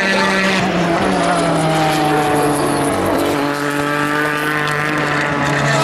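Endurance race car engines at speed, their notes falling in pitch as cars pass, with a fresh engine note taking over about three seconds in.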